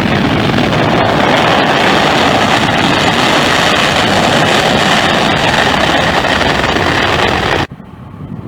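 Loud, steady jet airliner engine noise that cuts off abruptly about seven and a half seconds in.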